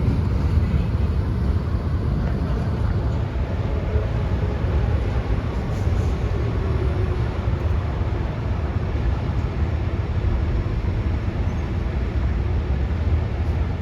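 Steady low rumble of a freight train rolling past, wheels on rail with no horn.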